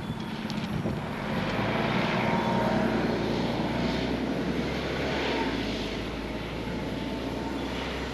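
Motorcycle engine running steadily under a rush of wind noise, growing louder over the first few seconds and then easing off a little.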